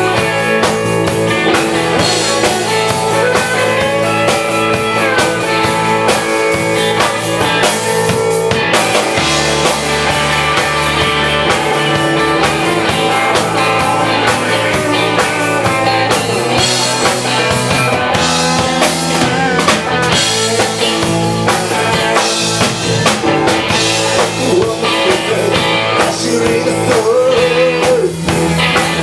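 Live rock band playing: electric guitar and drum kit.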